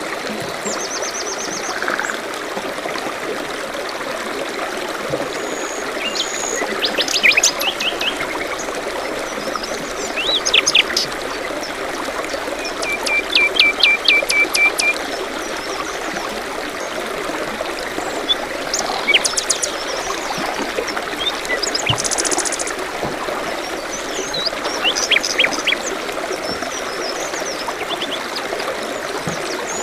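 Small stream trickling steadily, with songbirds calling over it: short chirps and trills, a quick run of evenly spaced notes about halfway through, and a buzzy note a little later.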